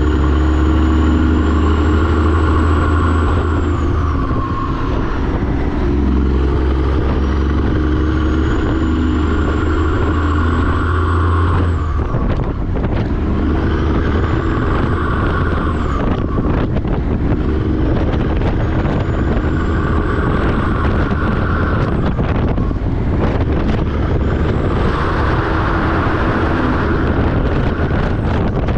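A semi-truck's diesel engine pulling through its gears: a high whine rises with the revs over a few seconds, then drops sharply at each shift, five times over.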